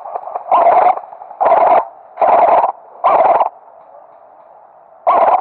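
Airsoft rifle fired in short bursts: four quick bursts less than a second apart, then a pause and another burst near the end.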